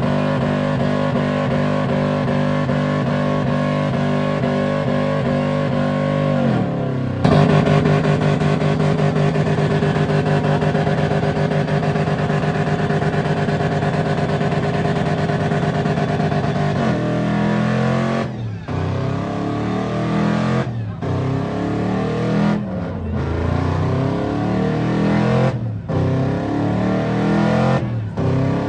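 Vehicle engine held at high revs for about ten seconds, then revved up again and again, each run rising in pitch and cutting back roughly every two seconds.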